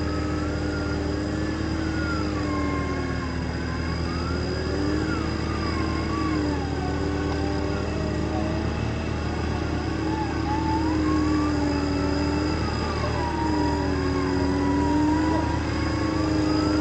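Off-road 4x4 engine working under varying throttle, its pitch rising and falling every couple of seconds, with a higher wavering whine above it.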